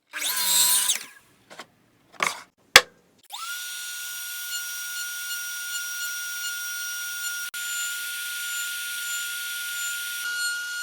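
A loud short noise, then a few sharp knocks, then a router motor switches on about three seconds in and spins up quickly to a steady high whine, running free with a 45° chamfer bit fitted.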